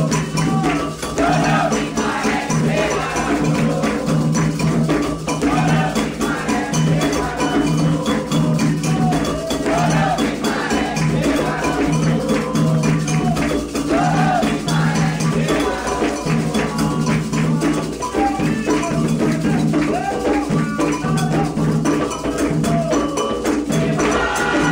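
Candomblé ritual music: atabaque drums played in a fast, steady rhythm with an agogô-like bell and rattles, and voices singing over them.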